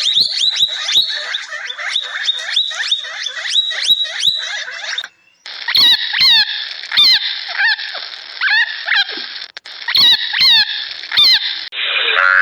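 Repeated short, high-pitched animal calls, each a quick squeak that falls in pitch, about three a second; after a brief break about five seconds in, a second run of calls comes more widely spaced.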